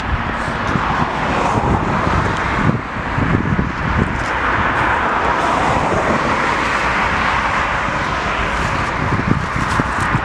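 Steady, loud rolling noise of a passing vehicle over a low rumble.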